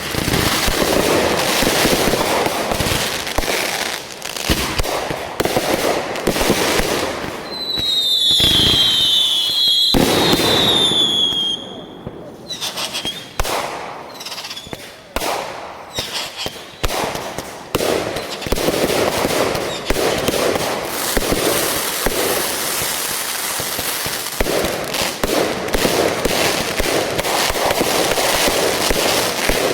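Fireworks going off in quick succession, with many overlapping bangs and crackles. About eight seconds in, a high whistle glides down in pitch several times for a few seconds. The barrage thins to scattered bangs for a while near the middle, then turns dense again.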